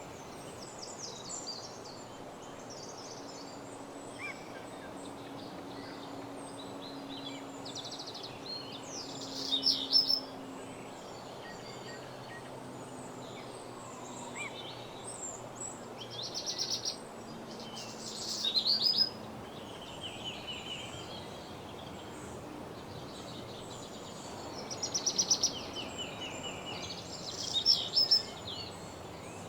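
Woodland songbirds singing over a steady background hiss: scattered chirps and short phrases, with a louder rapid trilled song that swells to a peak about five times.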